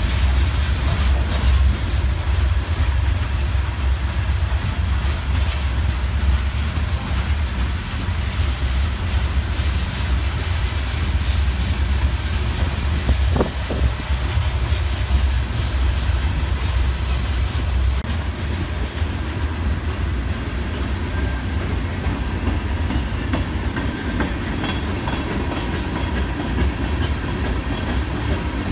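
A freight train's covered hopper and tank cars rolling past: a steady low rumble of steel wheels on the rails, with clicking as the wheels pass over rail joints.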